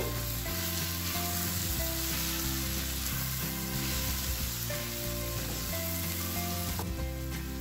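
Goat heart pieces frying with ground spices in a nonstick pan, sizzling steadily while a spatula stirs and turns them.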